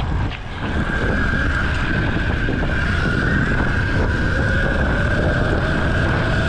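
Mini bike's small engine running under way, with wind buffeting the microphone. The engine note climbs slowly from about halfway through.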